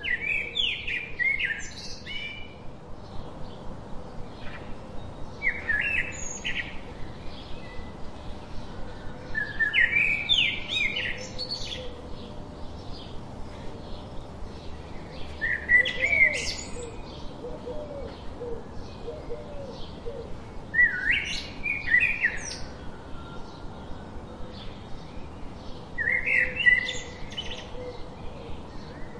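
Birds calling: a short burst of chirping notes roughly every five seconds. Behind them runs a faint, even ticking of about two a second.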